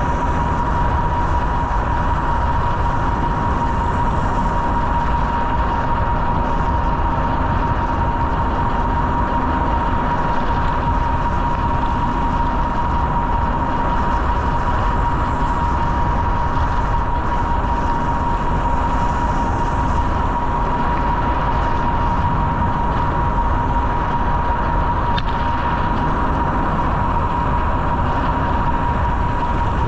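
Steady wind and rolling noise from riding a bicycle, with a steady high-pitched whine held throughout.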